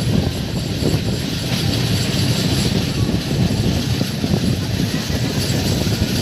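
A train running, a steady rumble of wheels on the rails that holds level throughout.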